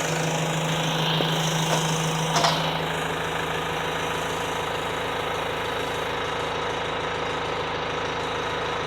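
Mk6 Ford Transit 2.0 TDdi diesel engine idling steadily in a Mk7 Transit van, with a short clunk about two and a half seconds in.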